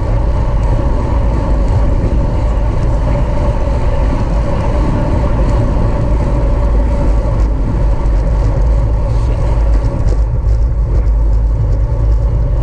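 Heavy wind rumble on the microphone of a camera riding along on a racing bicycle at speed, with a steady hum underneath.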